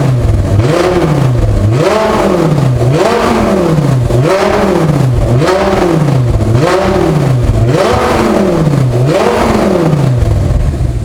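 Audi R8's 5.2-litre V10 being blipped repeatedly while standing, about once a second, each rev rising and falling back, through a Fabspeed X-pipe exhaust with its valves open. The revs ease off near the end.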